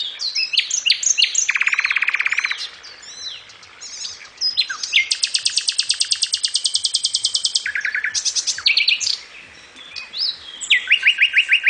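Common nightingale singing: varied phrases of rising and falling whistles broken by rapid trills of repeated notes, the longest trill running about three seconds in the middle.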